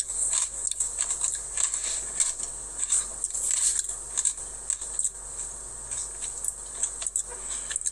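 Irregular small clicks, scrapes and crackles of a Dairy Queen Blizzard being handled and eaten with a spoon, over a steady high hiss.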